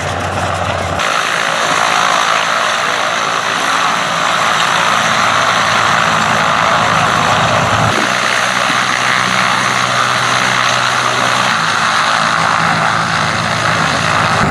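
Antonov An-2 biplane's nine-cylinder radial piston engine and propeller running steadily. The sound shifts abruptly about a second in and again about eight seconds in.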